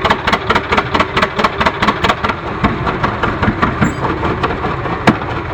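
Old John Deere two-cylinder tractor engine running with an even exhaust pop, about five to six beats a second, slowing slightly in the second half. A sharper crack comes near the end, and the sound cuts off abruptly.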